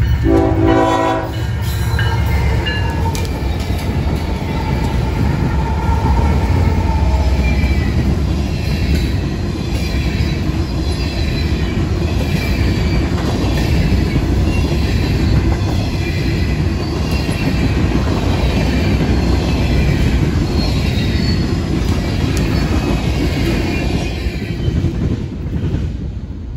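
Freight train passing close by: a brief horn blast from the diesel locomotives right at the start, then the locomotives' engine rumble and a long string of covered hopper cars rolling past with wheels squealing on the rails. It fades near the end as the last cars clear.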